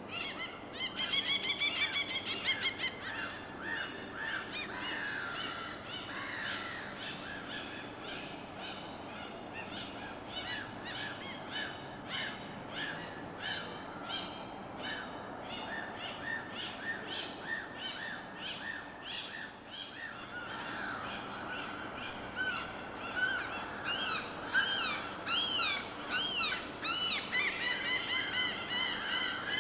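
Several birds calling and singing over a steady background hiss. There is a fast trill about a second in, long runs of short repeated notes through the middle, and arching whistled notes near the end.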